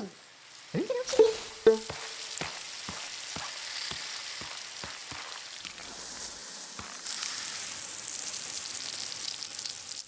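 Water spraying with a steady hiss, which turns brighter about two-thirds of the way through, over soft clicks about twice a second. A few short gliding squeaks come near the start.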